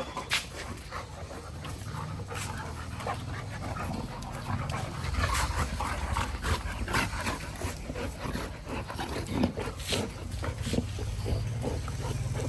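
Golden retriever panting, with scattered clicks and knocks throughout and a low rumble from about halfway through.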